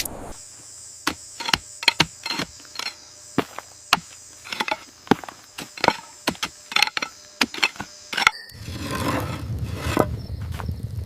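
Irregular sharp knocks and taps, about two a second, over a steady high hiss like insects. About eight seconds in it switches suddenly to a denser rustling, rushing noise with a low rumble.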